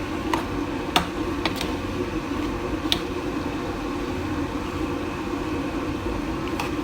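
Spoon clinking against a cooking pan a few times in the first three seconds while macaroni in a thick sauce is stirred, over a steady hum.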